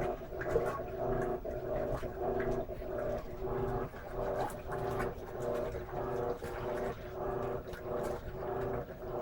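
Electrolux LM13Q top-load washing machine agitating with its lid closed: the motor hums in short, repeating pulses as the agitator swings back and forth.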